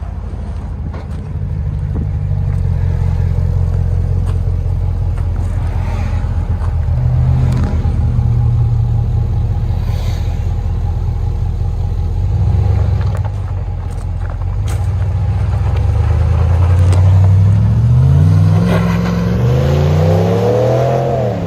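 5.7-litre Hemi V8 in a Ram 1500 running through a Borla Pro XS muffler with the stock resonators kept: a steady low exhaust drone while cruising. Near the end the note rises in several steps as the truck accelerates through its gears.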